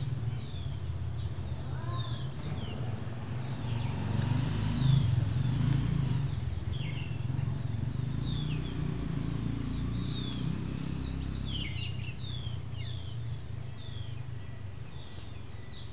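Birds chirping with many short, falling notes throughout, over a steady low rumble of outdoor background noise.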